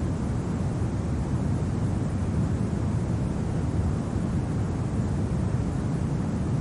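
Steady low winter wind, a constant deep rushing with no gusts or breaks.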